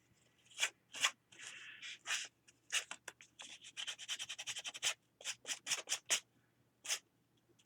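Abrasive sanding of the paper page edges of a glued book, a run of quick, short scratchy strokes with brief gaps, becoming sparse near the end.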